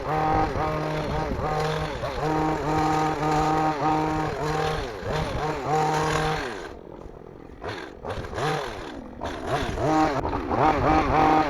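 Petrol hedge trimmer's small two-stroke engine revved in short, repeated bursts. Past the middle it drops to a low idle for a few seconds, then revs up again.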